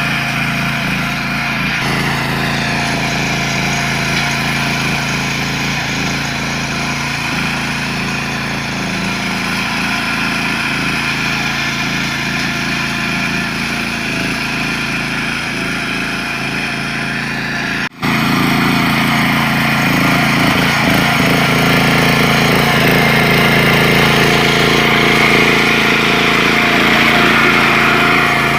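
Small tractor engine running steadily. About two thirds of the way through it cuts out for an instant, then carries on a little louder.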